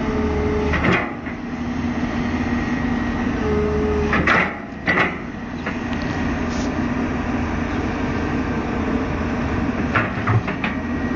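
Excavator engine running steadily, with several sharp knocks and clanks: one about a second in, two around four to five seconds in, and a quick run of them near the end.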